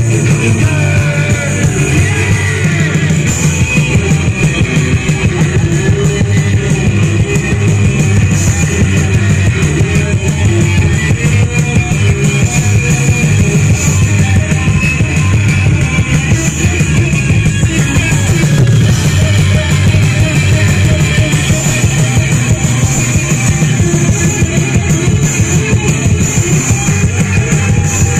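Loud live rock music from a band: guitar and drum kit playing steadily, with some singing.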